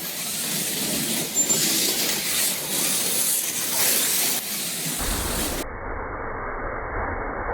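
Plastic-chassis slot cars running laps on a three-lane wood routed track: a steady high whir of small electric motors and gears, with the rushing of tyres and guides on the wooden track. About five seconds in the sound changes abruptly to a duller, muffled version with more low rumble.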